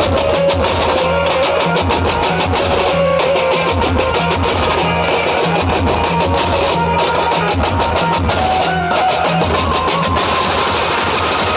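Banjo-band music: a plucked, amplified Indian banjo melody over a steady drum beat, played loud through a DJ sound system.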